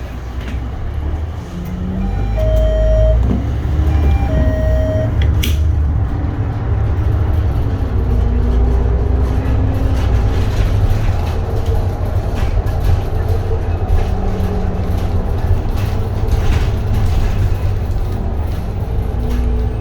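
Inside a 2022 Edison Motors Smart 110G low-floor city bus, its GX12P CNG engine rumbles louder from about two seconds in as the bus pulls away from a stop and picks up speed. Two short electronic beeps sound over it, about two seconds apart. A sharp click follows about five seconds in.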